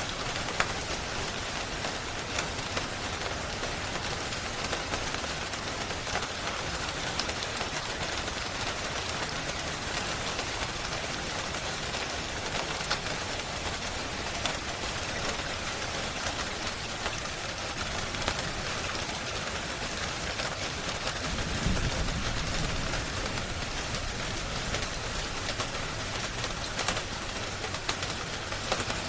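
Steady rain falling, with sharp crackles of a wood fire scattered through it. A brief low rumble swells up about three-quarters of the way through.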